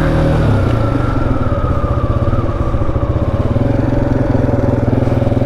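Husqvarna 701's single-cylinder engine running while the motorcycle is ridden; about half a second in, the smooth drone changes to a rapid, even chugging pulse that holds steady.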